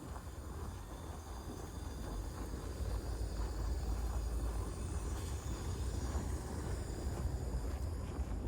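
Low rumble of passing vehicle traffic on a city street, swelling for a few seconds in the middle and easing off near the end.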